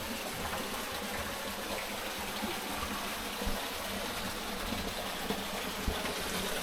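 Steady rush of flowing water, like a small stream or cascade running, with two faint low knocks partway through.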